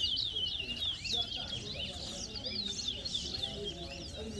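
Towa-towa songbirds singing a fast, continuous string of high, swooping chirped notes, the song that is counted in a bird-whistling match. Low crowd chatter runs underneath.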